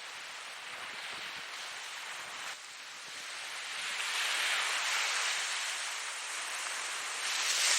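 Ocean waves breaking and washing in, a steady hiss of surf that dips briefly, then swells a second or so later and surges again near the end.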